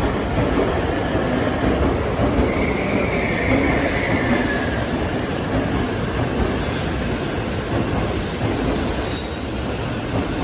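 JR commuter train running, heard from inside the carriage: a steady rumble of wheels on rail. A high wheel squeal rises for a couple of seconds, about two and a half seconds in.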